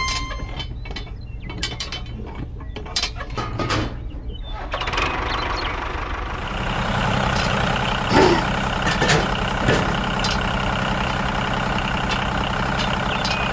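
Machinery sound: a run of separate mechanical clicks and ratcheting for the first few seconds, then a steady running machine with a low hum and fine ticking, broken by a few louder knocks.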